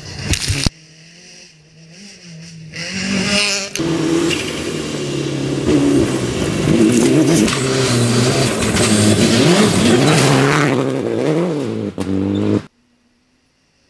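Rally car at full throttle on a gravel stage: a short loud burst of noise at the start, then the engine comes up loud, its revs climbing and dropping several times through the gear changes, until the sound cuts off suddenly near the end.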